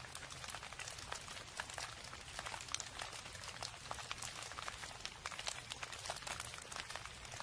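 Steady rain: an even hiss thick with sharp, irregular drop ticks, over a low rumble.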